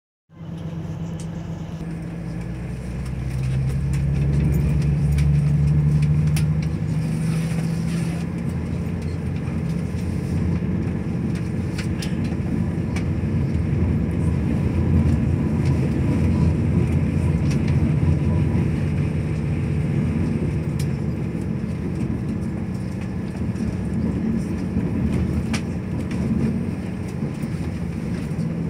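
Diesel passenger train pulling away from a station, heard from inside the carriage. The engine note climbs over the first few seconds as the train accelerates, then settles into a steady rumble of engine and wheels on the rails, with scattered clicks.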